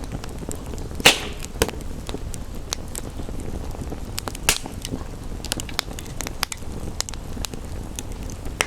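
Wood fire crackling, with many small sharp clicks and a louder pop about a second in and another near the middle, over a steady hiss of rain.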